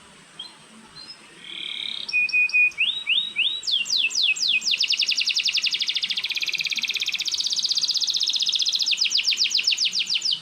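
Canary singing: a few short high notes, then a run of quick downward-sweeping notes, breaking about four seconds in into a long, rapid rolling trill.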